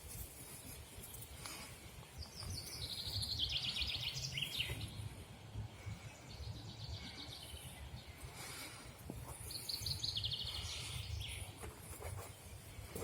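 Songbird singing outdoors: two quick trilled phrases, each about two and a half seconds long and falling in pitch, about two seconds in and again about ten seconds in, over a steady low rumble.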